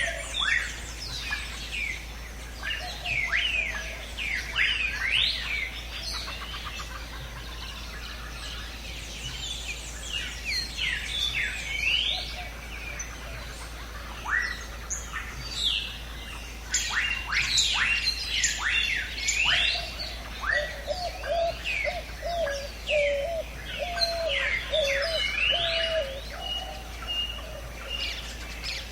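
Several birds chirping and calling in a dense chorus of quick, mostly falling chirps. About two-thirds of the way through, a lower call repeats several times beneath them.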